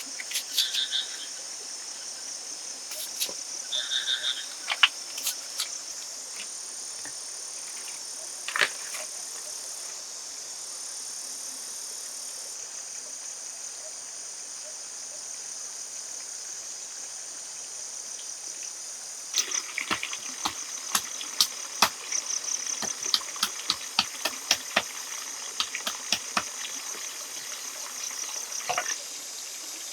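Steady high-pitched chirring of rainforest insects such as crickets or cicadas, with a few short calls early on. From about two-thirds of the way through, a rapid series of sharp clicks and knocks joins in.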